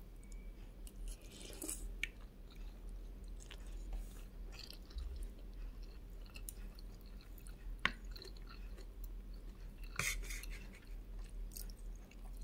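A person chewing a mouthful of rice, noodles and fried egg close to the microphone, in soft, irregular wet bursts. A few sharp clicks break through, the loudest about eight seconds in.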